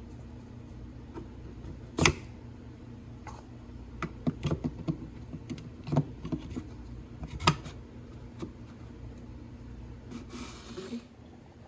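Household cleaning sounds at close range: a sharp knock about two seconds in, then a run of light clicks and taps, and a brief hiss near the end, over a steady low hum.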